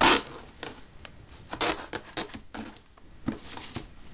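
A taped cardboard package being torn open by hand: short bursts of packing tape ripping and cardboard scraping, the loudest right at the start and another longer rip near the end.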